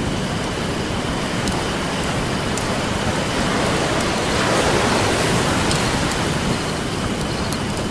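Ocean surf washing onto a beach, a wave swelling to a peak about halfway through, with a few sparse crackles and pops from a wood campfire.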